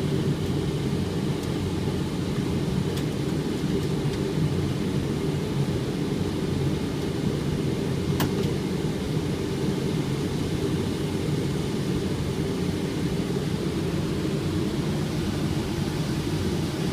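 Steady flight-deck noise of an airliner in flight: a low, even rush of airflow and engine drone, with a single sharp click about 8 seconds in.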